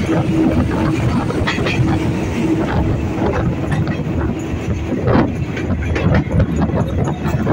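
Train running along the track, heard from a window of the moving carriage: a steady loud rumble with irregular clacks of the wheels over the rails.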